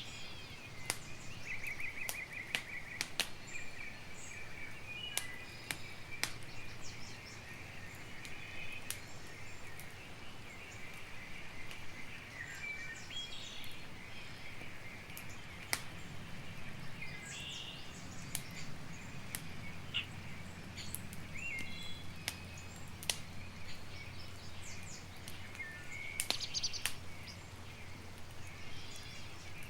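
Campfire crackling with scattered sharp pops over a steady low rumble, while birds chirp and trill in the background.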